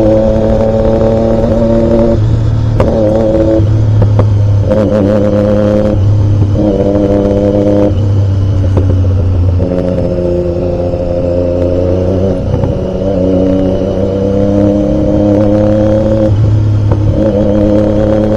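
Triumph Daytona 675's three-cylinder engine running under way, loud and steady, its pitch stepping up and down every second or two as the revs change.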